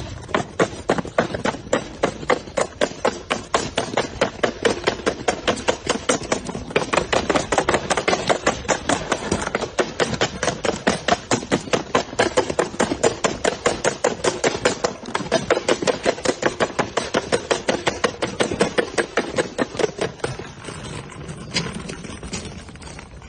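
A fast, even run of sharp knocks, about four a second, that fades near the end.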